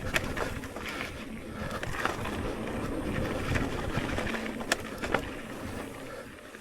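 Electric mountain bike riding a dirt trail: steady tyre rumble and rattling from the bike, with a few sharp clacks, two of them close together near the end.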